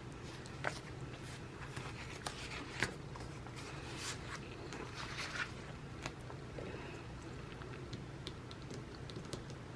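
Faint rustling of paper and sticker sheets being handled, with scattered light clicks and short rustles over a steady low room hum.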